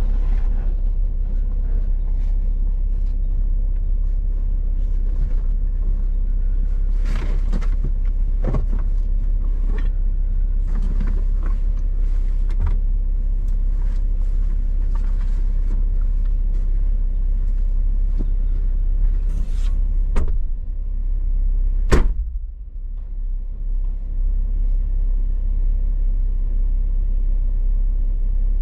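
A vehicle engine running with a steady low rumble, with scattered knocks and one sharp click about two-thirds of the way through.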